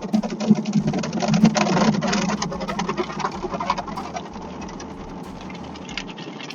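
Automatic car wash machinery working on a car: a rapid, irregular patter of water and brush hits over a steady mechanical hum, loudest for the first two seconds or so and then easing.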